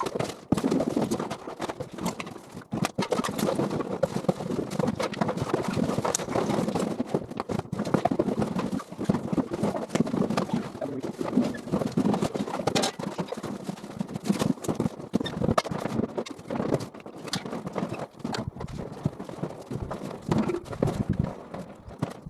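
Busy, irregular knocking and clattering of junk and household items being handled and moved.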